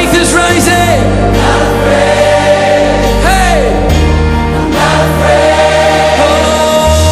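Contemporary Christian worship song: a choir singing sustained lines over a band. A solo voice slides through a few runs, the clearest about three seconds in.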